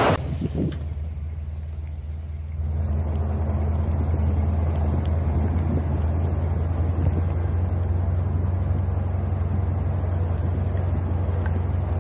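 Pickup truck driving: a steady low engine drone with road noise, which grows louder about three seconds in and then holds.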